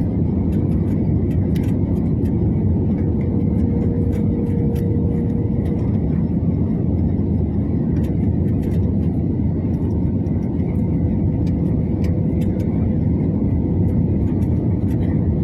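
Airliner cabin noise on approach: a steady low rumble of engines and airflow, with a faint hum coming and going.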